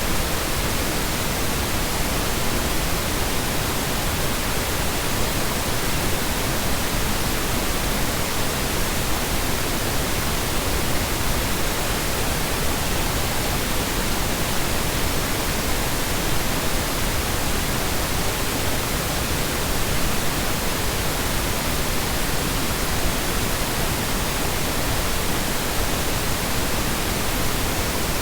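Steady synthetic noise: a constant, even hiss with no tones, loops or changes.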